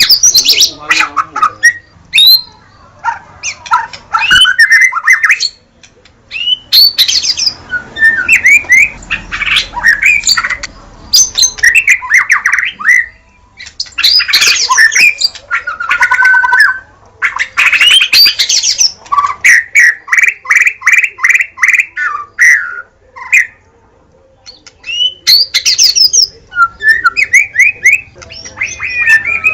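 White-rumped shama (murai batu) singing loud, varied phrases of whistles, fast repeated trills and harsh notes, in bursts with brief pauses between them.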